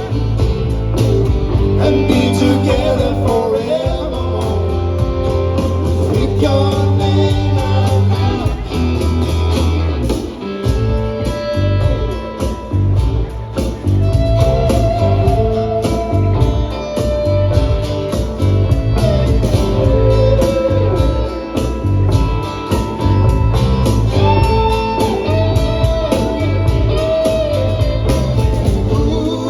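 Live band playing a folk-rock song on guitars, bass guitar and percussion, with a steady beat.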